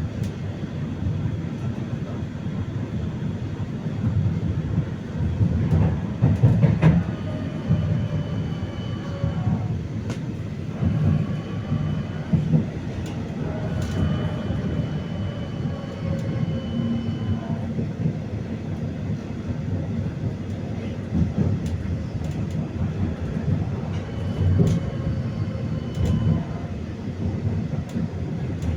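71-931M Vityaz-M tram under way: a steady rumble of wheels on the rails with scattered clicks over rail joints. The whine of its IGBT-controlled traction drive glides up and down in pitch, and a few brief high steady tones come and go.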